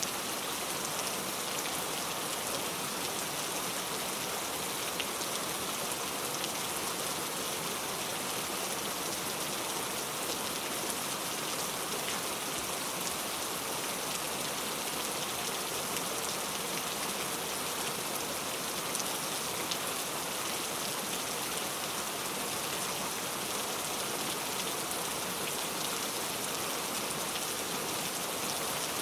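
Heavy rain falling steadily, a dense even hiss of drops with faint scattered ticks of individual drops.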